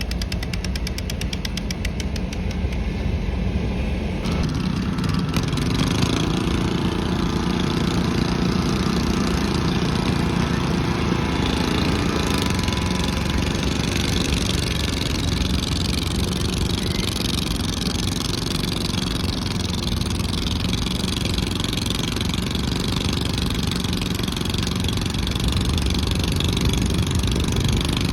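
Garden pulling tractor's engine running hard, loud and steady. Its rapid firing pulses give way to a fuller, steadier sound about four seconds in.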